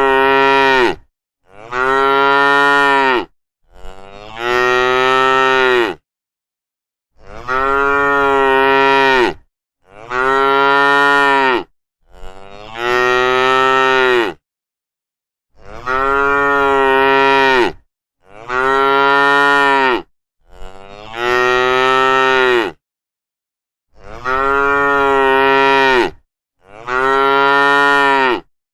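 Cow mooing over and over: about a dozen long, loud moos of about two seconds each, near-identical in shape, each rising then falling slightly in pitch, with a short gap of dead silence between them.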